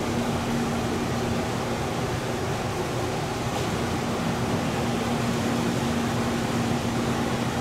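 Steady whir of a stopped JR Kyushu 787 series electric train's ventilation and electrical equipment, with one steady low humming tone throughout.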